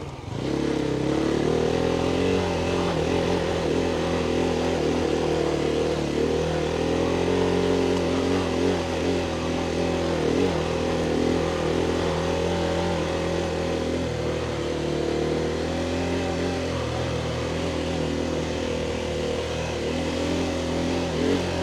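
Motorcycle engine running at a fairly steady speed while riding, its pitch holding level with small rises and dips.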